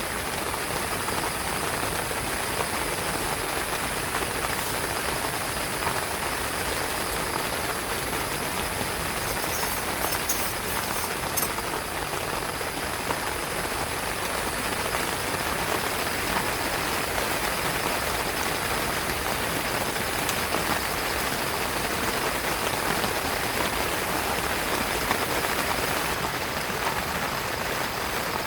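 Heavy rain falling steadily on a tent, a dense unbroken patter.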